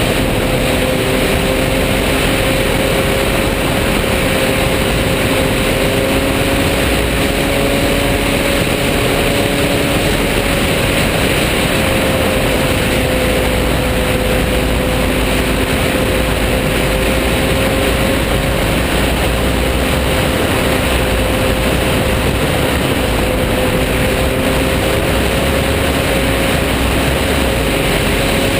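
Motorcycle cruising at a steady speed, its engine holding an even drone under loud, constant wind rush.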